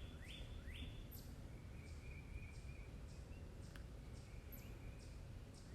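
Birds singing in the background: short rising chirps repeated about twice a second, giving way after about a second to a run of thinner, higher notes, over a low steady rumble.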